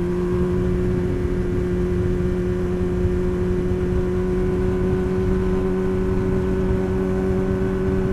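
Sportbike engine running at a constant speed while cruising: a steady, even hum, with wind rumble on the microphone.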